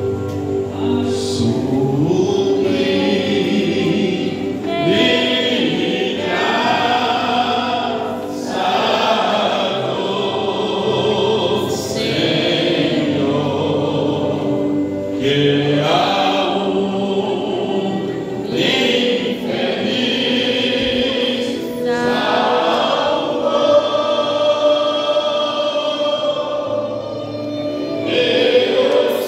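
A group of voices singing a Christian worship song together in chorus, with long held notes.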